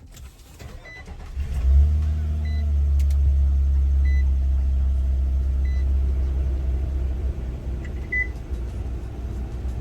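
2022 Nissan Frontier's 3.8-litre V6, breathing through a newly fitted cold air intake, starting about a second and a half in with a brief rev flare, then running at a fast cold idle. Short electronic beeps repeat about every second and a half.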